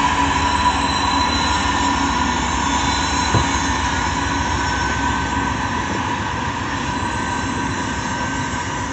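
Freight train cars rolling past: a steady rumble of wheels on rail with a thin, steady high whine over it and one clunk about three seconds in.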